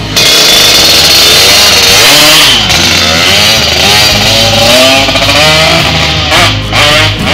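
Yamaha RX-King two-stroke single-cylinder motorcycle engine being revved hard, its pitch rising and falling several times, on test after its cylinder porting was reworked.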